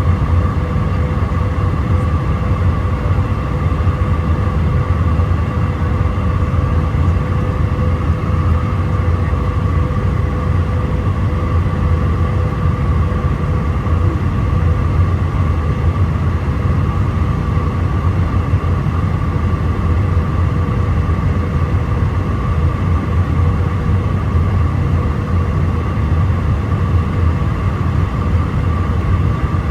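Steady cabin noise inside an Airbus A319-131 in flight on approach: a low rumble of airflow and engines with a steady whine from the IAE V2500 turbofans.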